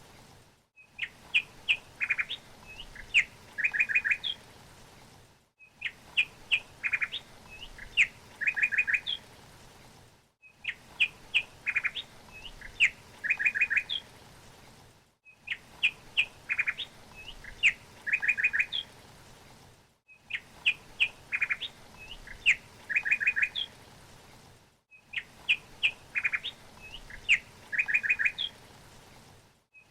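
Songbird chirping: a phrase of short chirps and quick trilled notes, repeated identically about every five seconds with a brief silent gap between repeats, a looped bird-song recording.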